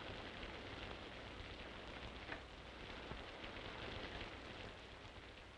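Steady hiss with a faint low hum underneath and a single click a little past two seconds in; it eases off near the end.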